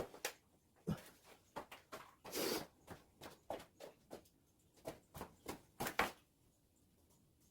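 Irregular clicks, knocks and short scrapes of hand work, with one longer scrape about two and a half seconds in; the sounds stop about a second before the end.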